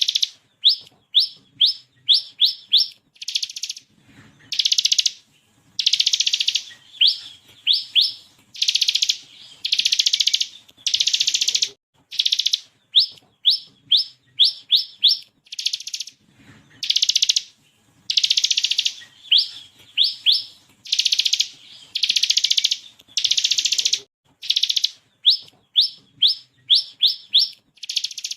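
Bar-winged prinia (ciblek kristal) singing loudly: long buzzy rattling trills alternate with quick runs of four to six sharp, rising 'shot' notes, over and over with short pauses.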